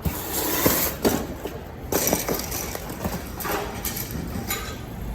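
Clattering and scraping noises with a few knocks and clinks, loudest in the first second and again about two seconds in, over a steady low rumble.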